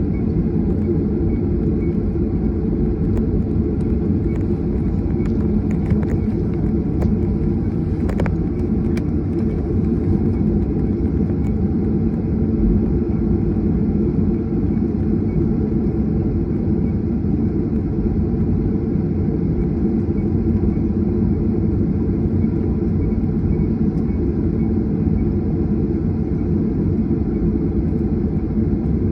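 Steady low rumble of a jet airliner heard from inside the passenger cabin, with a few faint clicks or rattles about a quarter of the way in.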